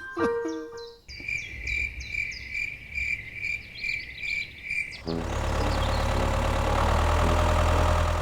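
A high chirp pulsing about twice a second for several seconds. About five seconds in, a mini tractor's small engine starts and keeps running steadily.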